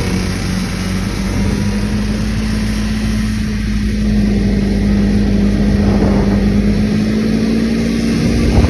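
Arctic Cat ZR200 250cc two-stroke engine in a Yamaha Snoscoot running steadily, its pitch creeping slightly higher over the stretch.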